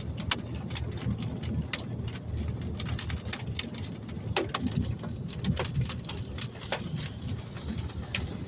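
Raindrops hitting the car in irregular sharp taps, over the low rumble of the car driving.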